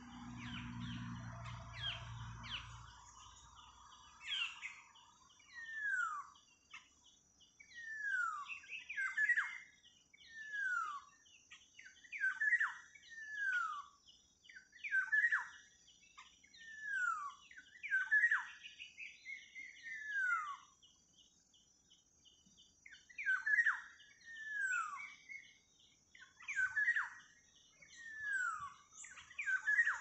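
A bulbul (merbah) calling over and over: a clear downslurred whistled note about once every second or two, with smaller chirps between. A brief low rumble comes at the start.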